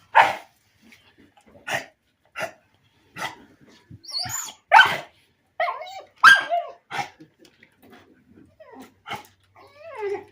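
A dog barking repeatedly: about ten short, sharp barks at irregular intervals roughly a second apart, mixed with a few higher whining calls.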